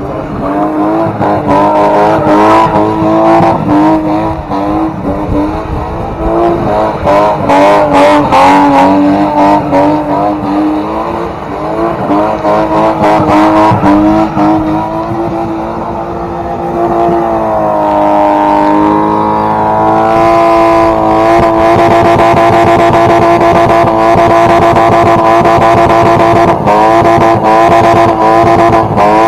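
Car engine, likely a BMW E30's, held at high revs: its pitch wavers up and down for more than half the time, dips and climbs back at about two-thirds of the way through, then holds steady and loud to the end, with many short sharp crackles throughout.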